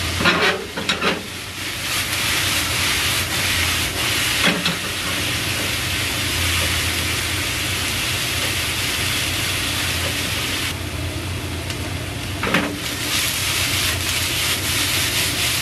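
Galunggong fish pieces with sliced yellow bell pepper and onion sizzling steadily in oil in a ceramic frying pan, stirred with wooden chopsticks. A few sharp knocks of the chopsticks and pan stand out, a cluster about a second in and single ones later.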